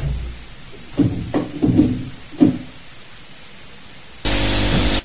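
A run of dull knocks and thuds in a flat, about five in the first two and a half seconds. Near the end a loud, steady hiss lasting under a second cuts off abruptly.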